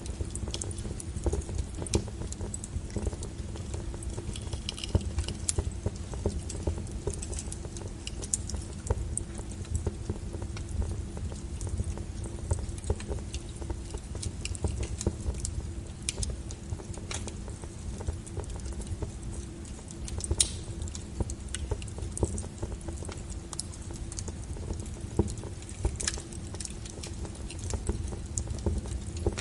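Wood fire crackling: irregular sharp pops and snaps over a steady low rumble, with a louder snap about twenty seconds in.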